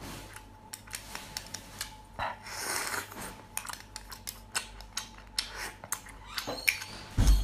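Clam shells and tableware clicking and clattering during eating, in a run of short sharp clicks with a heavy thump near the end.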